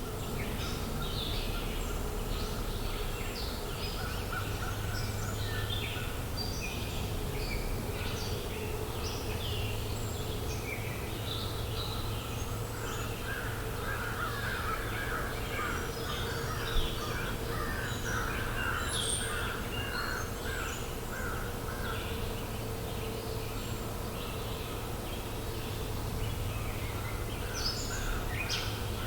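A chorus of songbirds chirping and trilling continuously, with crows cawing, over a steady low hum. Once, a little past the middle, there is a single short sharp tap.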